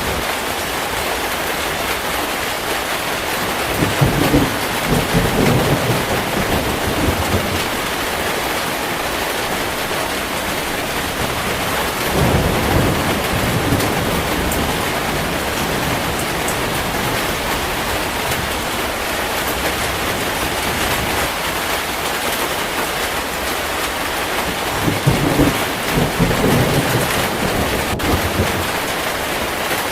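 Heavy rain falling steadily, with thunder rumbling three times: about four seconds in, near the middle, and again near the end.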